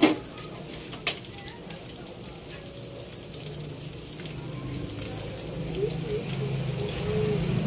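Chicken pieces frying in hot oil: a steady sizzle with small crackles. Two sharp clicks come at the very start and about a second in.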